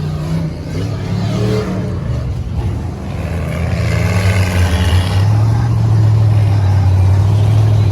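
Large truck engine running with a low, steady drone that grows louder about halfway through.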